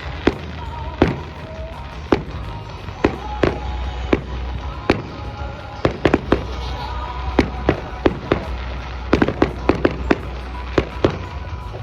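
Fireworks exploding: a string of sharp bangs and cracks at irregular intervals, coming thick and fast about nine to eleven seconds in, over a low rumble and music.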